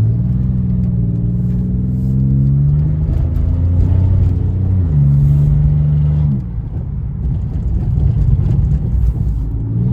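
Catless exhaust of a Pontiac Grand Prix GT's 3.8-litre V6 pulling in second gear, the engine pitch rising for the first few seconds and then holding. About six seconds in the throttle lifts and the note breaks into an uneven, crackling rumble: the exhaust burbles of the tune running without catalytic converters. Near the end it pulls again.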